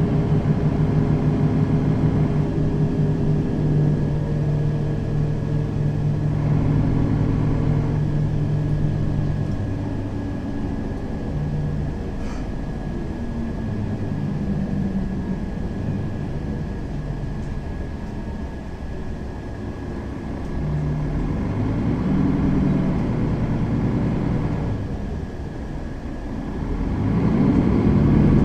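Mercedes-Benz Citaro facelift city bus engine running on the move: a steady engine note at first, then easing and shifting through the middle, dipping lower near the end before picking up again.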